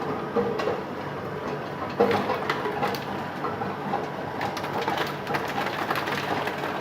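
Tube ice machine running: a steady mechanical noise with irregular clicks and knocks throughout.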